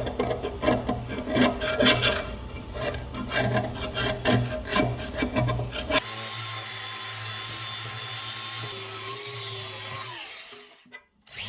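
Metal scraper rasping and scraping over a crusted, rusty cast iron skillet in quick irregular strokes, working the old caked gunk off the iron. About six seconds in it cuts to a steady hum with a few held tones, which fades out near the end.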